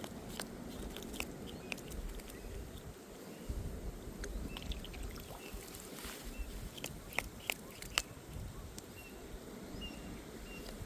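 Kayak moving on water: a steady low wash of water and hull noise with scattered light clicks and drips. A few faint short bird chirps sound in the background.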